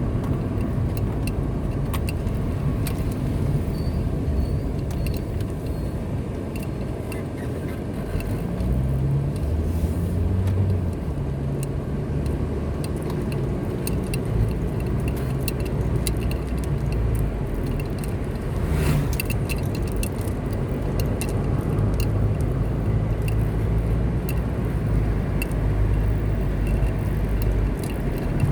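Car driving along a road: a steady low engine and road rumble, with scattered light clicks and rattles throughout.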